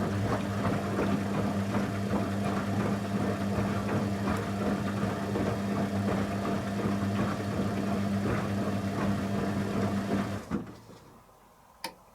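Candy Aquamatic 100F washing machine in its final rinse: a steady electrical hum over water rushing and rattling, which cuts off suddenly about ten and a half seconds in. Two sharp clicks follow near the end.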